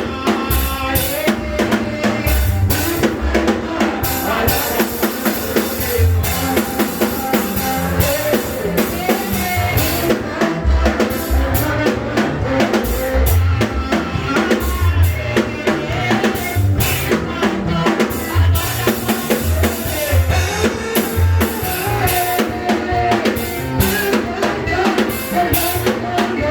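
Live church praise music driven by a drum kit, with bass drum and snare keeping a steady beat under wavering melodic voices or instruments.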